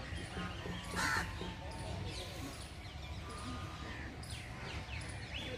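A bird gives one short, rough caw-like call about a second in, over faint, repeated high chirps of other birds and a steady low background rumble.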